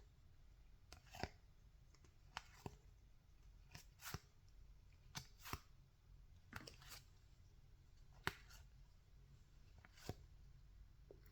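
Baseball trading cards being flicked off a stack one at a time, a soft paired snap of card on card about every second and a half.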